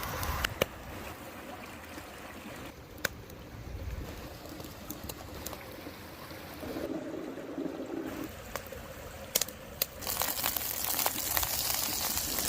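Liquid trickling and pouring, with scattered sharp clicks and knocks, and a louder hiss for the last couple of seconds.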